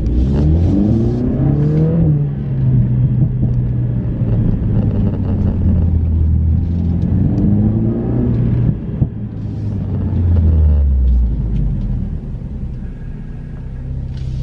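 Mercedes-AMG CLA 45's turbocharged four-cylinder engine pulling under acceleration, its pitch rising over about two seconds at the start and again about seven seconds in. A short sharp crack comes just before nine seconds in, then the engine note runs steadily and drops away about eleven seconds in.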